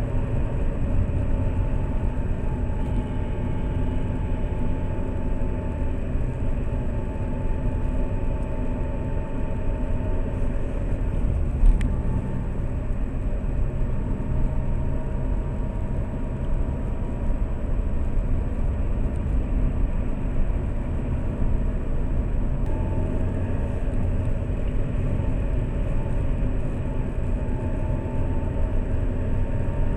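Road and engine noise inside a moving Lada Priora, a steady rumble with a faint whine that slowly drifts in pitch; a single sharp knock about twelve seconds in.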